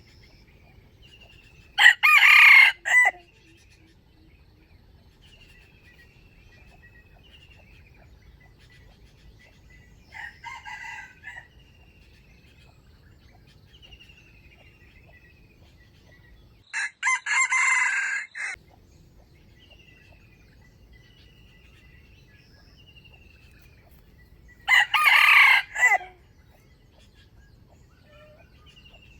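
Junglefowl (wild chicken) roosters crowing: three loud, short crows spaced several seconds apart, and a fainter crow answering from farther off in between. A small bird repeats a short falling chirp every second or two throughout.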